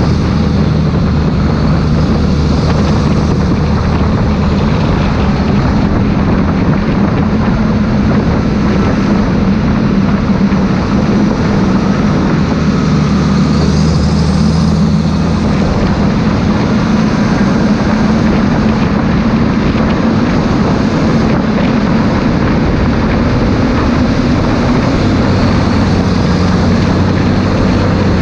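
Claas Xerion 3800 tractor's diesel engine running steadily, with its pitch shifting slightly a few times.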